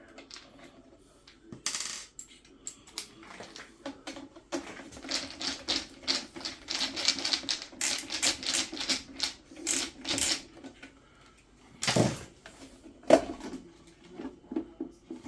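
Rapid small clicks and rattles of metal parts and tools being handled, a thick run of them in the middle, then two louder single knocks near the end.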